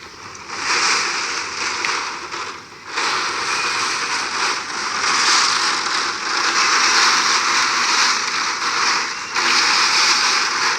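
Heavy hurricane rain pouring down and pattering hard, swelling and easing in gusts, with a brief lull about three seconds in.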